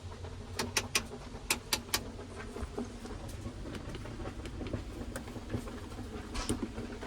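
An engine idling steadily, with a quick run of sharp clicks and knocks in the first two seconds and lighter scattered ticks after.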